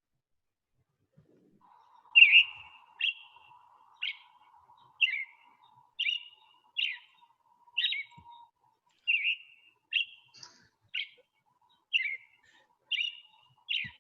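American robin calling: a short, sharp chirp repeated about once a second, starting about two seconds in.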